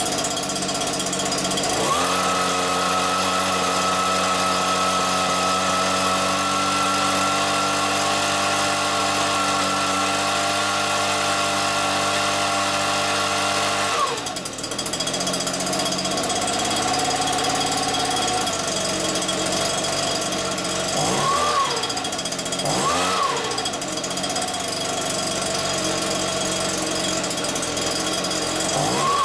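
Freshly rebuilt Stihl BR86c leaf blower's two-stroke engine running while being tuned. It revs up to high speed about two seconds in and holds steady, drops back to idle around halfway, is blipped twice, then revs up again at the end.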